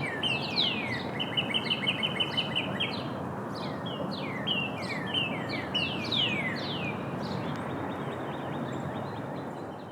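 Songbirds singing: repeated clear whistled notes that slide down in pitch, with a quick run of short, even notes about a second in, over a steady low background noise. The singing thins out in the last few seconds.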